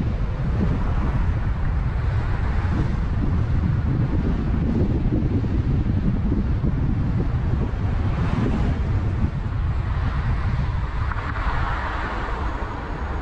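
A car driving along the road: a steady low rumble of road and engine noise with wind buffeting the microphone.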